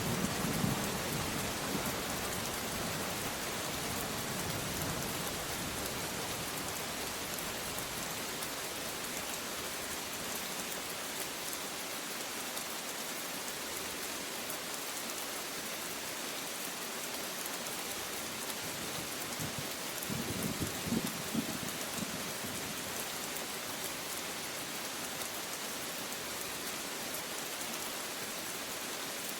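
Steady rain falling, a dense even hiss of drops. A low thunder rumble dies away in the first second, and another brief low rumble swells and fades about two-thirds of the way through.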